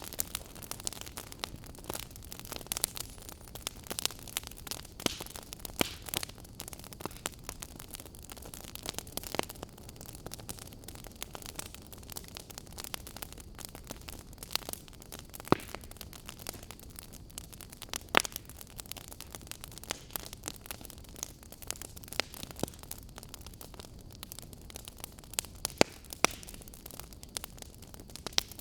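Wood fire crackling in a fireplace: irregular sharp pops and snaps over a steady soft hiss, with a few much louder snaps scattered through.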